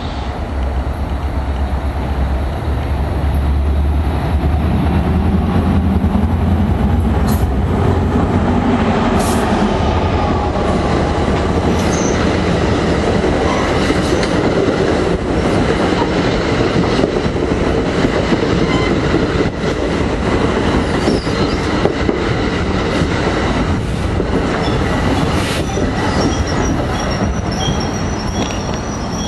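New Jersey Transit diesel push-pull commuter train passing close by. A deep low rumble swells in the first several seconds as the locomotive goes past. Then the bilevel coaches roll by with wheels clicking over the rail joints, and a thin, high wheel squeal comes in near the end.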